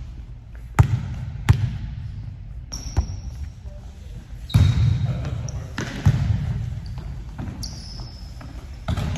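Volleyball rally on an indoor court: the ball is struck sharply about eight times at uneven intervals, with short high squeaks in between, and the hits echo in the hall.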